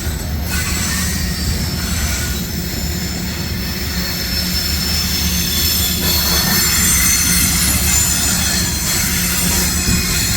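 Freight cars of a long manifest train rolling past: a steady low rumble of steel wheels on rail, with high-pitched wheel squeal that grows a little louder about halfway through.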